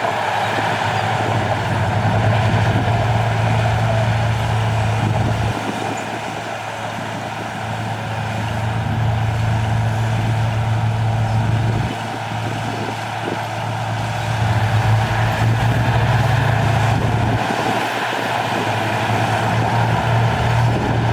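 Heavy diesel earthmoving machinery working: a deep engine note that comes up strongly for stretches of several seconds and eases off in between, rising and falling about three times, over a steady mechanical clatter.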